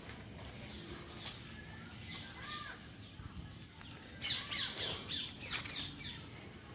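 Faint chirping of birds, busiest about four to six seconds in.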